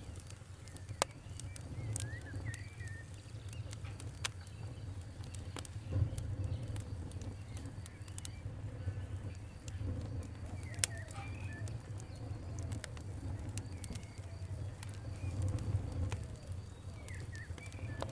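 Wood fire crackling: scattered sharp pops and snaps over a low steady rumble. Birds chirp faintly in the background.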